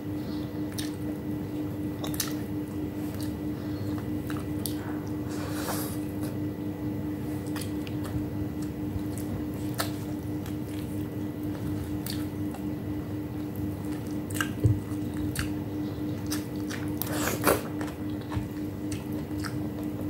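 Close-up chewing with wet mouth clicks and smacks, and soft squelches as boiled eggplant is torn apart by hand. A steady low hum runs underneath.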